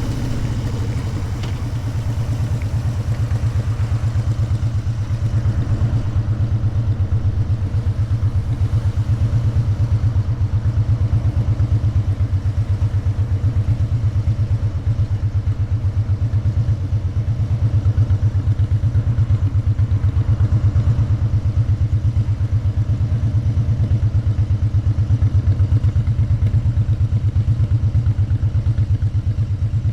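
Motorcycle engine running while riding, a dense steady pulsing of the exhaust. It builds a little over the first few seconds, then holds an even pace.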